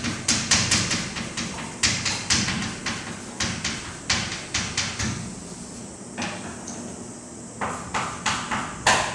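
Writing sounds: a quick series of sharp taps and strokes of a writing tool on a hard surface, several a second, thinning out for about two seconds past the middle and then picking up again.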